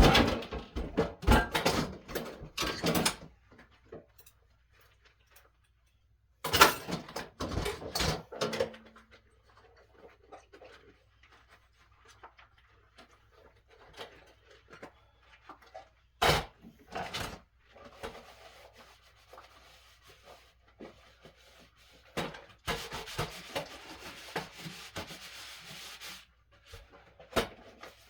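Kitchen clatter of dishes and utensils being handled, knocking together in several bursts, with stretches of rubbing noise in between.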